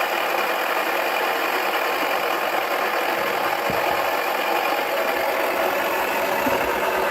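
Toy washing machine running with a cricket ball in its drum: a steady whirring motor with a thin high whine.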